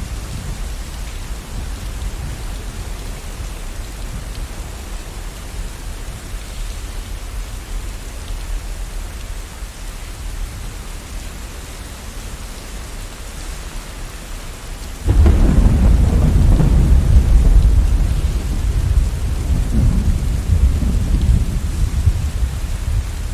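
Steady rain with a low rumble of distant thunder. About fifteen seconds in, a loud thunderclap breaks in suddenly and rolls on for several seconds.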